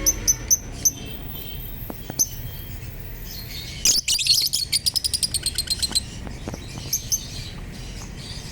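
Fischer's lovebirds chirping: sharp, high, short chirps, then about four seconds in a rapid run of chirps, roughly eight a second, lasting about two seconds, followed by scattered single chirps.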